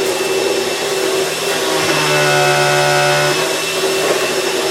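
Vacuum cleaner running steadily. For about a second and a half in the middle, a steady pitched hum is layered over the motor noise.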